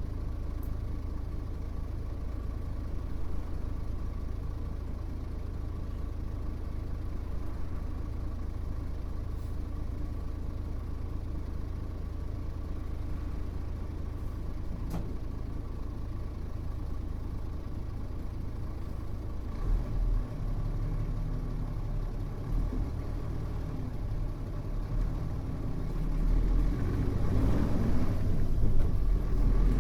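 Mitsubishi Fuso U-MK618J bus's diesel engine idling steadily. About two-thirds of the way through, the engine note changes and grows steadily louder as the engine is revved up, the bus getting under way.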